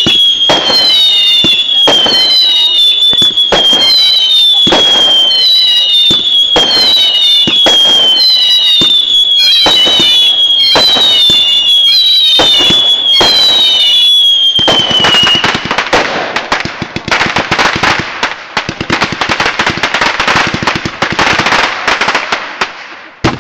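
A firework barrage firing shot after shot about once a second, each a bang with a falling whistle. After about fifteen seconds the whistles stop and a dense, rapid crackling of many small bangs takes over.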